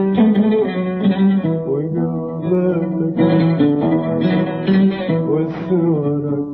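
Music: an oud plays a melodic instrumental passage in an Arabic song, with no singing.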